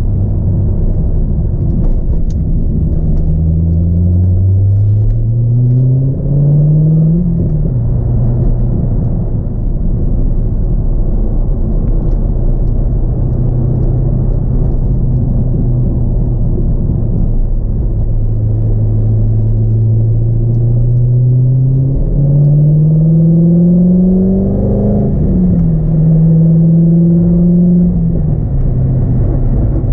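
A 2002 Corvette C5's LS1 V8 with a cold air intake, heard from inside the cabin while driving. It rises in pitch twice under acceleration and drops sharply after each rise, with steady cruising in between.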